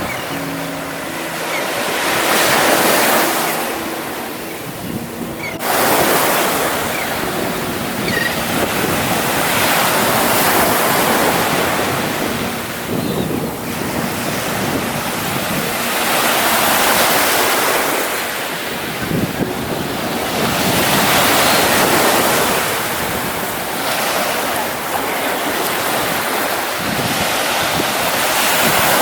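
Ocean surf breaking and washing up on the beach, the rush swelling and falling back every few seconds, with wind buffeting the microphone.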